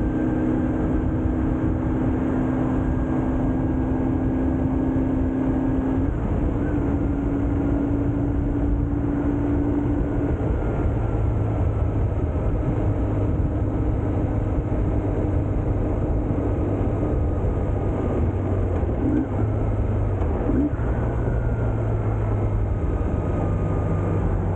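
BMW R1150GS Adventure's boxer-twin engine running under way, with steady wind and road noise. Its note holds level, then shifts pitch a few times.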